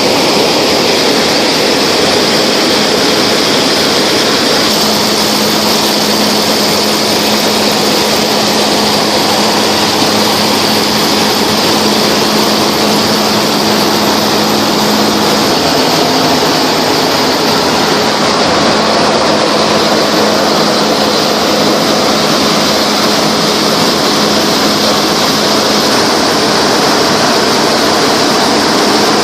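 Tractor and Double L four-row potato harvester running steadily in the field, a loud, even machine noise. A steady hum comes in about five seconds in and fades away about ten seconds later.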